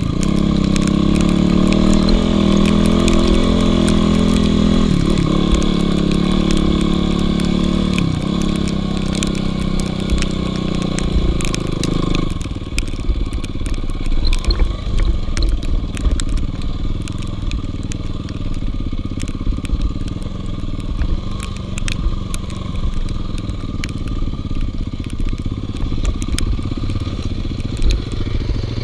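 Dirt bike engine running hard under throttle for about twelve seconds, its pitch dipping briefly twice, then dropping abruptly to a quieter, rougher running with a lot of clatter.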